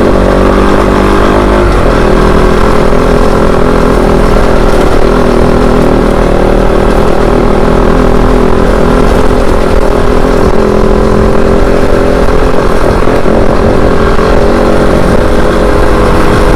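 Kove 450 Rally's single-cylinder engine running under way at a fairly steady pace, its pitch easing and picking up slightly a few times, with a low rumble underneath.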